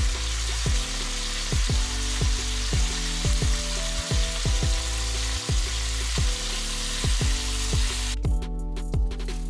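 Food frying in a pan, a steady sizzle, over background music with a regular deep beat. The sizzle drops out for about a second near the end while the music carries on.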